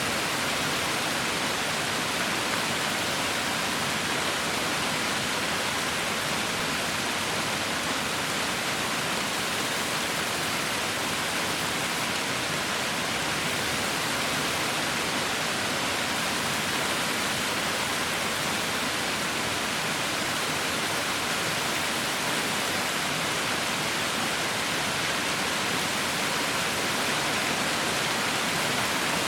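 Heavy rain falling steadily: an even, unbroken hiss with no single drops standing out.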